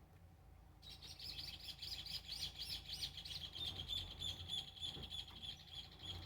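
A songbird singing one long song of rapid repeated high notes, about four or five a second at first, then quickening into a faster trill near the end.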